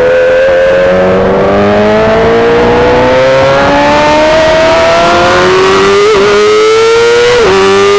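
2008 Yamaha R6's 600 cc inline-four through a full SC-Project exhaust, pulling steadily up through the revs under gentle acceleration. About seven and a half seconds in the pitch drops sharply for an upshift and starts climbing again.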